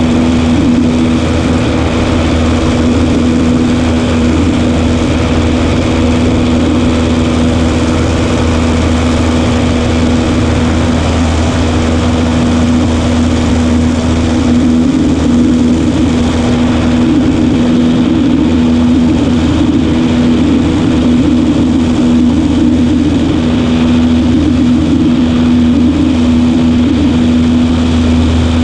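Cessna 140A's piston engine and propeller droning steadily at a constant power setting.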